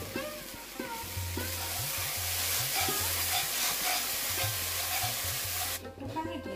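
Curry masala sizzling in a nonstick wok while a metal spatula stirs and scrapes it. The sizzle cuts off suddenly near the end.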